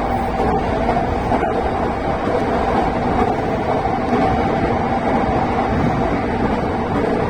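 Commuter electric train running steadily at speed, heard from inside the carriage: an even rumble of wheels on rail with a constant hum over it.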